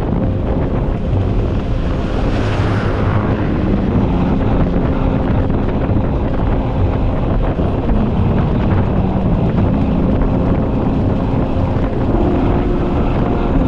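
Motorcycle engine running under way, its note rising and falling with the throttle, over heavy wind noise on the microphone. A brief hissing swell comes about two seconds in.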